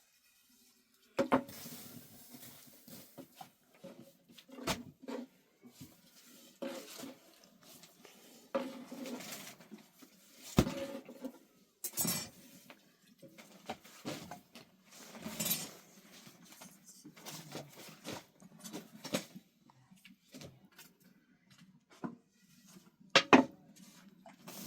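Dishes and cooking utensils being handled: irregular clinks and knocks, with a few sharper ones about a second in, around the middle and near the end.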